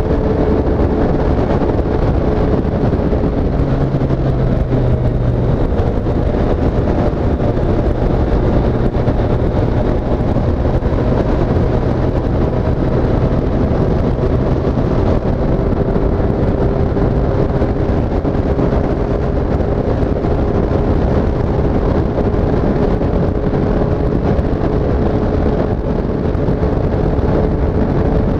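Triumph Street Triple S 765 cc three-cylinder engine running at a fairly steady speed while the bike is ridden, its pitch shifting only slightly. A steady rush of wind and road noise runs underneath.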